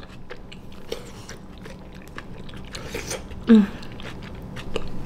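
A person chewing a mouthful of spicy ramen noodles, with many small wet mouth clicks, and one short, louder low hum about three and a half seconds in.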